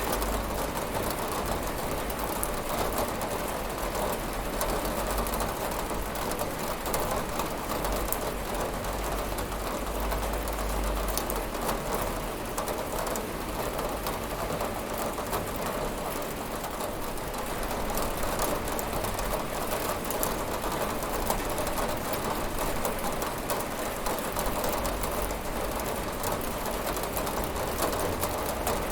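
Steady rain on window glass: an even wash of rain noise with many small drops ticking on the pane, over a low rumble.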